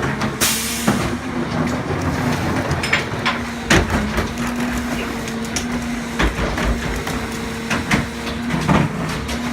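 Garbage truck running with a steady hum, broken by repeated sharp clanks and knocks.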